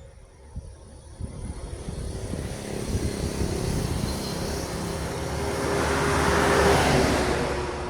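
A heavy truck approaching and driving past, its engine and tyre noise swelling to a peak about seven seconds in, then fading.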